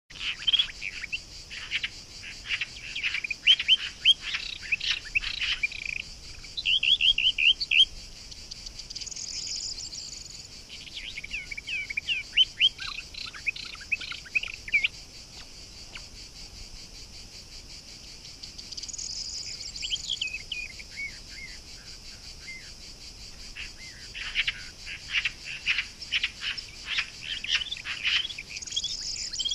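Birds chirping in runs of short, quick notes that come in bursts of a few seconds, with a pause around 16 to 18 s. A steady high insect drone from crickets runs underneath and swells briefly three times.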